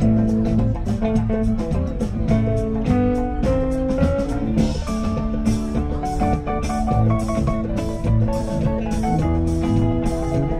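Live rock band playing an instrumental passage, with guitar leading over a steady drum-kit beat.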